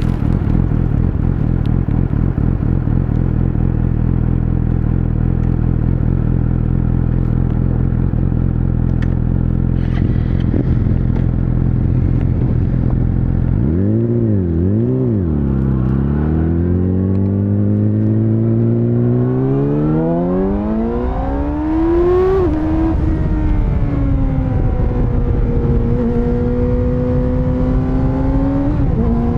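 Yamaha YZF-R6 inline-four engine running steadily at low revs, blipped twice, then pulling away with revs rising. It shifts up about 22 seconds in and climbs again, with another shift near the end.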